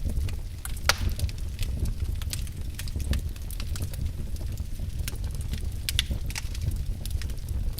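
Wood fire burning in a fireplace: a steady low rumble of the flames with irregular crackles and snaps of the burning logs, the sharpest pops about a second in and again about six seconds in.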